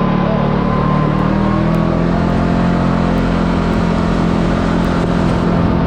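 Side-by-side UTV engine running at a steady, even pitch while climbing a winding road, with tyre and road noise underneath.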